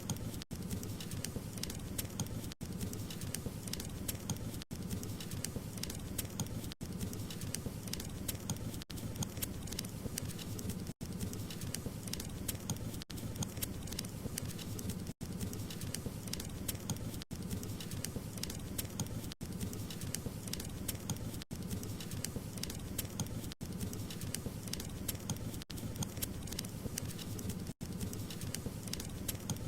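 Wood fire crackling and popping steadily over a low rumble of burning, with a tiny gap in the sound about every two seconds.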